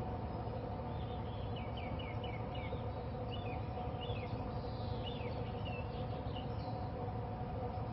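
A small bird singing short runs of quick chirps over a steady low hum.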